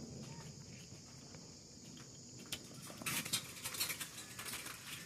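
Faint steady chirring of insects in the background, with a run of soft irregular crackling and rustling from about two and a half seconds in.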